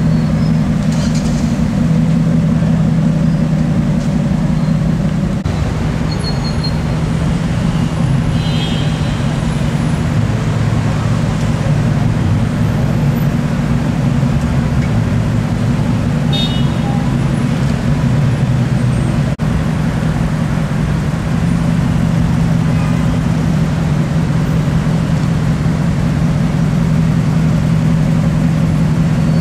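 Mercedes SLS AMG's 6.2-litre V8, in Fab Design Jetstream Roadster form, running at low revs with a steady low rumble and other street traffic around it. The sound changes abruptly twice, about five and nineteen seconds in.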